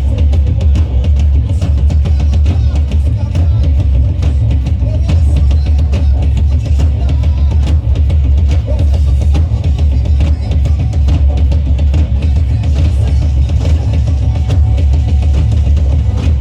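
Band music in a rock style, with a drum kit playing a steady beat over heavy bass.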